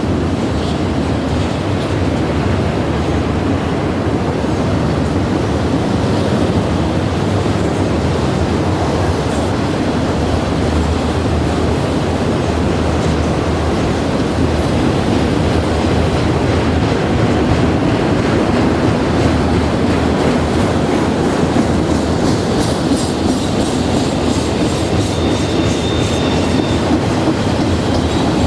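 Train cars rolling past on the rails: a loud, steady rumble of wheels on track, with a faint high wheel squeal coming in about three quarters of the way through.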